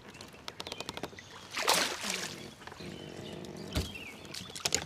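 Water splashing beside a kayak as a hooked smallmouth bass is fought at the surface, with a run of rapid clicks early on and several knocks against the hull. A bird chirps faintly in between.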